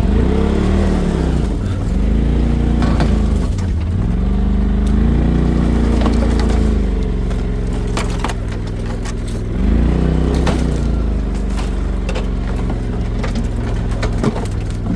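Polaris RZR side-by-side engine revving up and down several times under load, as it pushes over small trees and brush. Branches crack and snap at irregular moments throughout.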